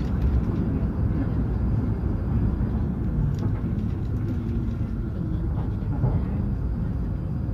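Hokuriku Shinkansen train running, heard from inside the passenger car as a steady low rumble.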